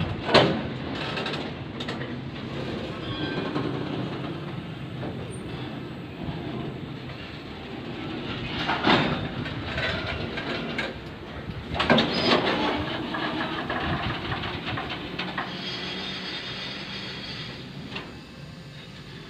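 Oil tank wagons of a freight train rolling slowly past on the adjacent track: a steady rumble of wheels on rail, with a few loud clanks about nine and twelve seconds in. The noise fades toward the end.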